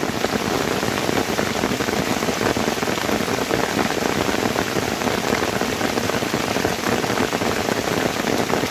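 Heavy tropical rain pouring steadily onto leaves and wet ground, a dense, even patter.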